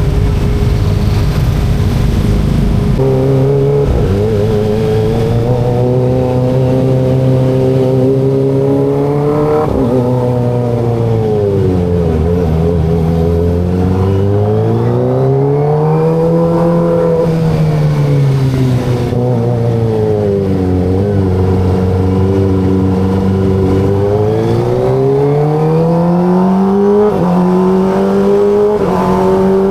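Kawasaki ZX25RR's inline-four engine heard from the rider's seat during city riding, its note climbing and falling several times as the throttle is opened and closed. For the first few seconds it is mostly a low rumble before the engine note comes through clearly.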